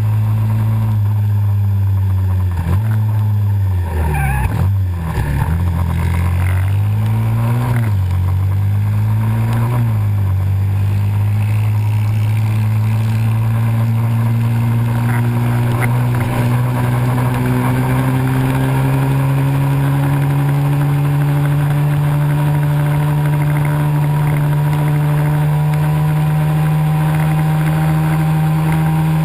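Pit bike engine running while being ridden. The revs drop and pick up again several times in the first ten seconds, then climb slowly and steadily under a long, even pull.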